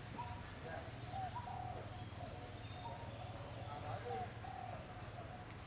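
Faint birdsong: short repeated notes at a middle pitch, a few brief high downward chirps, and a low steady hum underneath.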